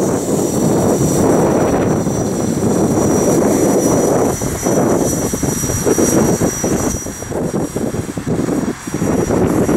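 Strong gusty wind buffeting the microphone, with the thin, steady high whine of an Exceed Blueray 450 RC helicopter's motor and rotor flying far off in the wind; the gusts ease and return in the second half.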